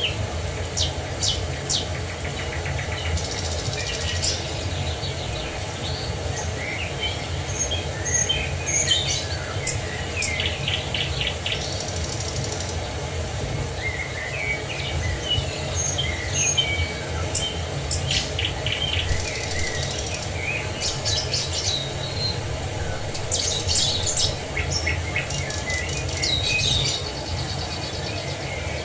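Several small songbirds chirping and trilling in short, overlapping phrases over a steady rushing of falling water.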